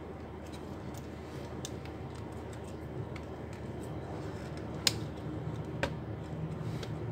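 Light clicks and taps of small laptop parts being handled during reassembly, with two sharper clicks about five and six seconds in, over a steady low hum.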